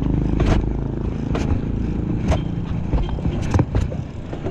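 A motor vehicle engine running steadily at idle, with about six sharp clicks and knocks scattered through.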